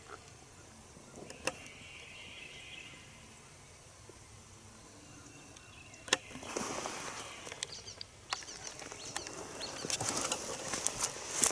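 Quiet outdoor air, then a single sharp crack about six seconds in, followed by rustling with many small crackles that grows busier toward the end.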